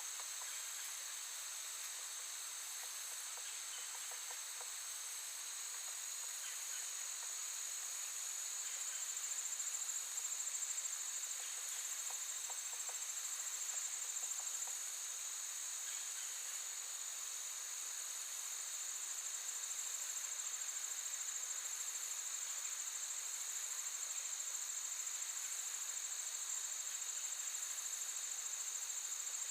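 A steady chorus of crickets and other insects: a continuous high-pitched trilling drone, with a few faint ticks.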